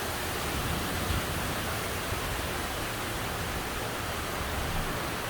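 Steady hiss of heavy rain falling during a thunderstorm.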